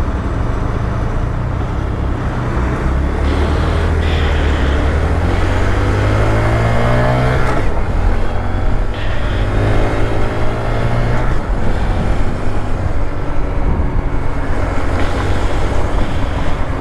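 Honda Grom's small single-cylinder engine running under way, over steady rushing road and wind noise. Its pitch rises twice, about a third of the way in and again past the middle, as the bike accelerates.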